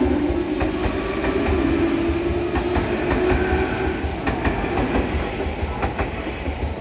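A Tokyu Oimachi Line electric train passing close by, its wheels clattering over the rail joints, with a low steady hum that fades after about four seconds. The train noise dies away toward the end.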